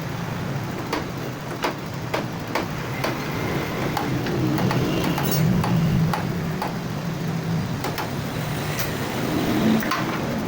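A vehicle engine running steadily, with irregular sharp ticks and knocks over it.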